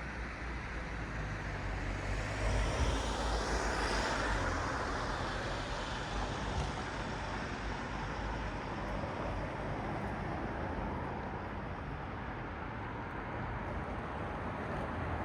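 Car traffic passing on a road: steady tyre and engine noise, with one car passing close about three seconds in, its sound swelling and falling in pitch as it goes by.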